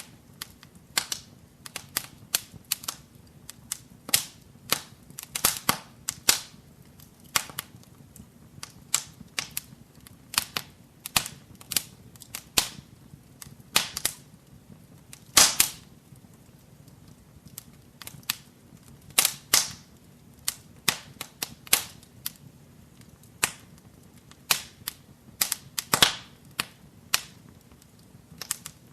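Wood fire in a fireplace crackling: irregular sharp pops and snaps, several a second, with a few much louder ones, over a faint low background noise of the burning fire.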